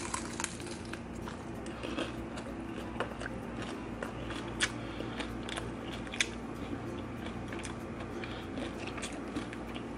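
Biting and chewing a crispy corn-shell quesadilla taco with a crisped cheese crust: scattered faint crunches and crackles over a low steady hum.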